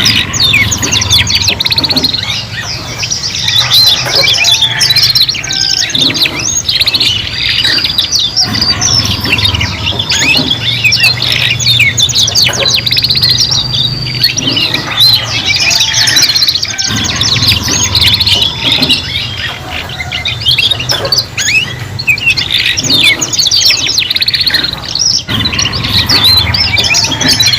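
Several young domestic canaries singing together, learning song: a continuous, dense mix of rapid trills, chirps and held whistled notes.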